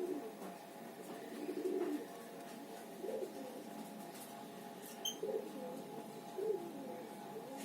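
Birds cooing: low, soft calls that rise and fall, repeating every second or so, with a couple of faint high chirps about five seconds in, over a steady hum.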